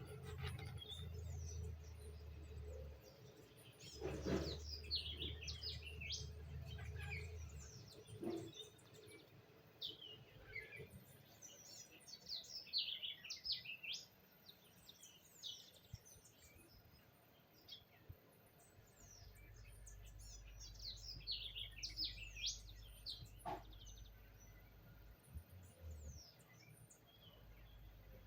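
Parrots chirping and squeaking in many short, quick calls, often overlapping. A low steady hum comes and goes underneath.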